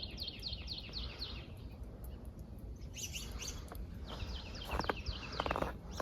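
Small songbirds singing runs of quick falling chirps, several times, over a low rumble, with a few sharp clicks near the end.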